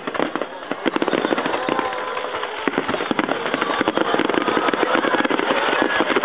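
Aerial fireworks finale barrage: shells launching and bursting in rapid succession, with dense overlapping bangs and crackling and a few long whistles over them.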